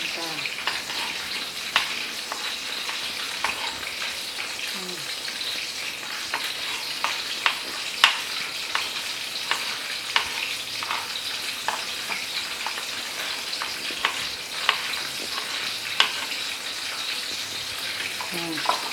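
Garlic, tomato and spring onion sizzling steadily in oil in a wok, with irregular sharp clicks of a knife slicing meatballs on a cutting board.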